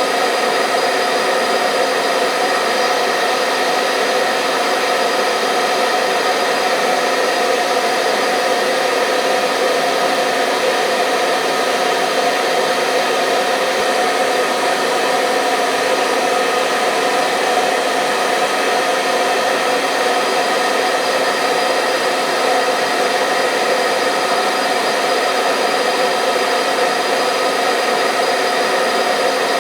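Hair dryer blowing continuously: a steady whooshing hum with a constant motor tone, unchanging throughout, used as white noise to settle newborn babies to sleep.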